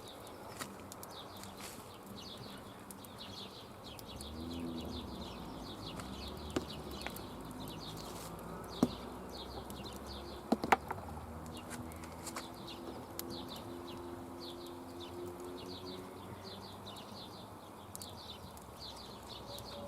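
Outdoor ambience: a steady run of short, high, repeated chirps from birds or insects. A low drone rises about four seconds in and fades out a few seconds before the end. A few sharp cracks come around the middle.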